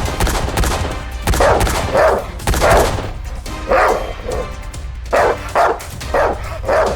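About nine short barks in an irregular series over steady background music.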